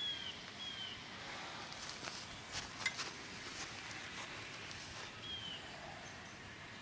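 Outdoor ambience with a small bird's short, high chirp falling in pitch, heard three times. Between them come a few faint clicks and rustles from handling the lure in the bass's mouth.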